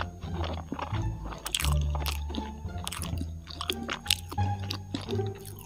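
Close-miked chewing of a soft takoyaki ball, with sharp mouth clicks scattered through, over background music with a changing low bass line.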